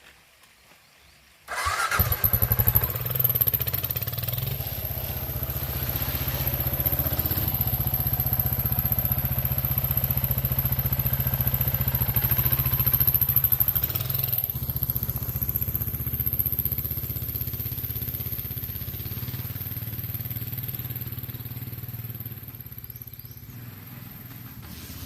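Kawasaki KLR 650 dual-sport motorcycle's single-cylinder four-stroke engine, which comes in suddenly about a second and a half in and then runs steadily, growing quieter near the end.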